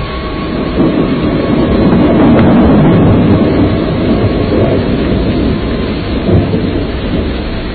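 Typhoon storm: a loud, low rumbling roar that swells about a second in and eases off toward the end.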